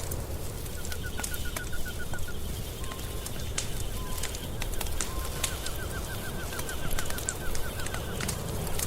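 Wood fire crackling and popping in a fireplace, with sharp irregular pops over a steady low rumble. Twice a rapid, even chirping trill runs alongside, about nine chirps a second, once near the start for about a second and a half and again for about three seconds in the second half.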